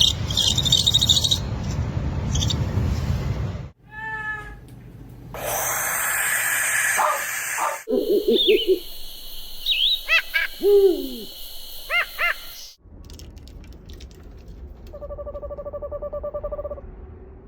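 Pet owl calls over several short clips: a falling call, then a run of curving, rising-and-falling calls, and near the end a fast trill of evenly pulsed notes lasting about two seconds.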